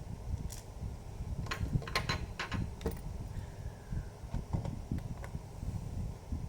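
Scattered light clicks and taps of a laptop being handled, with a cluster of quick clicks about one and a half to three seconds in, over a low rumble of handling noise.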